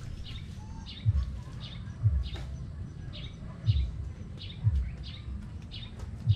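A bird chirping over and over, a short high chirp about twice a second, with low dull thuds about once a second underneath.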